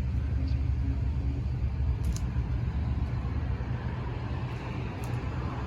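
Car running, a steady low rumble heard from inside the cabin, with a few faint clicks.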